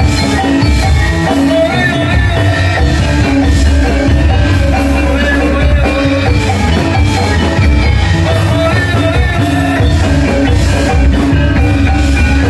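Balinese gamelan playing continuously and loudly: bronze metallophones ringing over drums.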